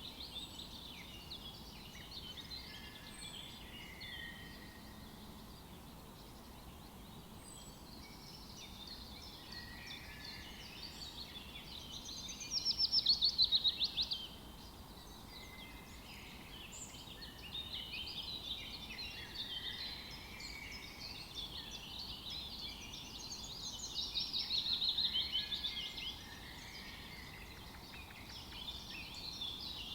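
Wild birds calling and singing together in many overlapping chirps. A louder, rapid trill comes about twelve seconds in and another about twenty-four seconds in, each lasting around two seconds.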